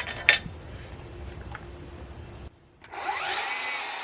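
A few knocks of wood, then a power saw runs through a cedar board for about two seconds, its pitch rising and then falling.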